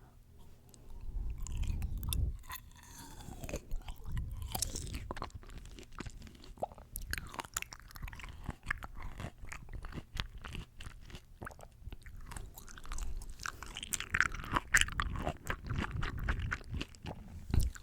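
Close-miked ASMR eating sounds: a person biting and chewing crisp, juicy fresh fruit, with wet crunching and crackling clicks. The chewing comes in spurts, loudest about a second in and again near the end.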